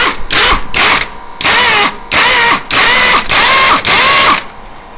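Impact wrench driving lug nuts in repeated trigger bursts: a few short quick ones, then five longer bursts of about half a second each, the motor whine rising and falling with each pull.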